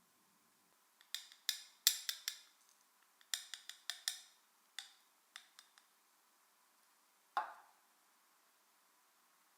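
A run of sharp clicks and clinks of small hard objects handled in a quiet room, about a dozen over four seconds, then a single louder clink with a short ring near the end.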